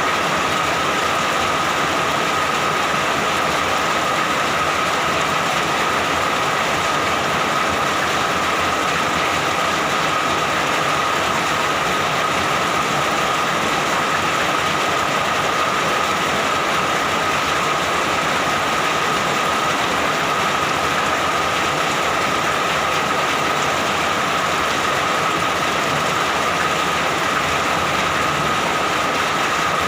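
Steady rainfall, an unbroken even rushing noise with a thin high tone running through it.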